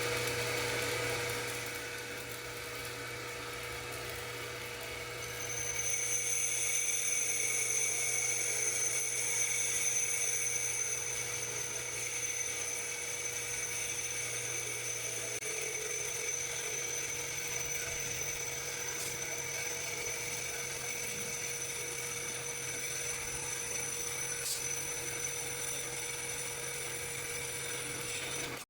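Homemade lathe running: its motor gives a steady hum, joined about five seconds in by a high-pitched whine that holds steady.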